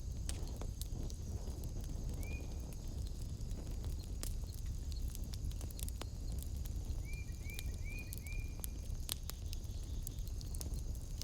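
Wood fire burning in a fireplace: irregular sharp crackles and pops over a steady low rumble. A steady high-pitched tone runs underneath, and short rising chirps sound once about two seconds in and four times in quick succession around seven seconds in.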